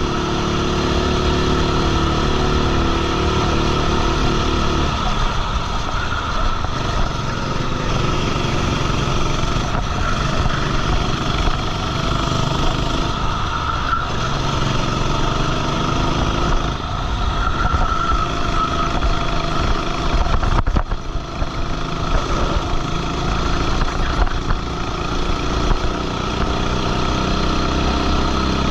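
Go-kart engine running hard at racing speed, its revs repeatedly falling and climbing again as the kart brakes and accelerates.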